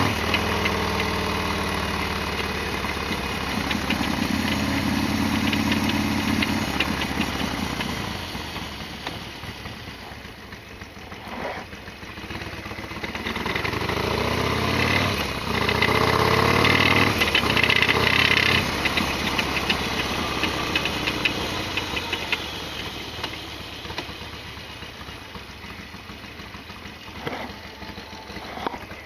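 Harley-Davidson Sportster XL1200R's air-cooled V-twin engine running on the move, its revs rising and falling several times as the bike speeds up and slows, with a clatter of fine ticks over the engine note.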